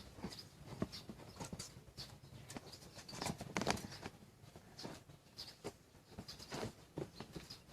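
Irregular light clicks and taps of small hard objects being handled, with a denser, louder cluster about three and a half seconds in.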